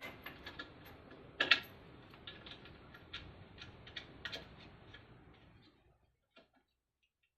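Irregular light clicks and knocks of hardware being handled, with a louder knock about a second and a half in and another about four seconds in; it dies away after about six seconds.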